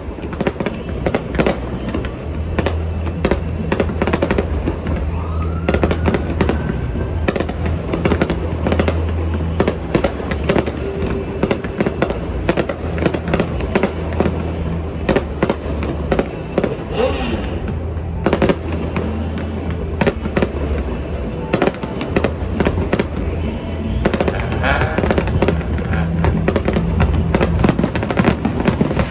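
Aerial fireworks display going off continuously, with a rapid, dense string of bangs and crackles. A brief rising whistle comes about five seconds in, and a hissing crackle near the middle.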